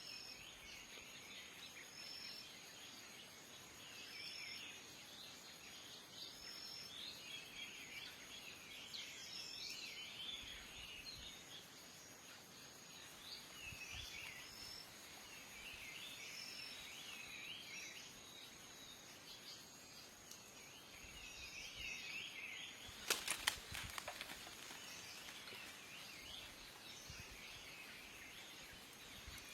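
Many small birds chirping and twittering over a steady high whine. About 23 seconds in, a quick cluster of sharp clicks, the loudest sounds here.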